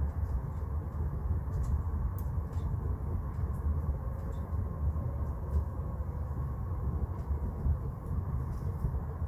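Wood fire burning in a newly built downdraft wood stove: a steady low rumble of the draft, with scattered faint crackles.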